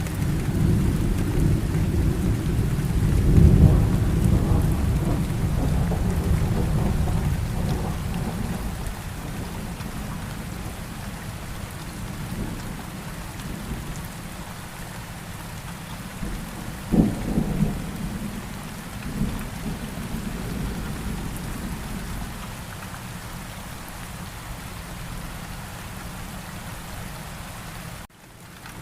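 Steady rain in a thunderstorm. A long roll of thunder rumbles over the first several seconds, and a sharper crack of thunder with a rumble after it comes about 17 seconds in. The sound briefly cuts out just before the end.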